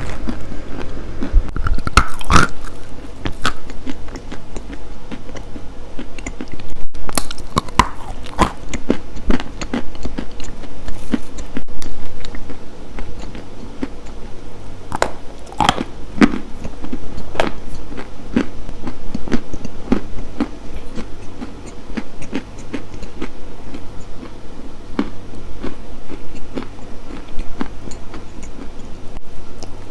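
Close-miked biting and chewing of something crunchy: irregular crisp crunches throughout, with louder bites about two seconds in, around eight seconds and around sixteen seconds.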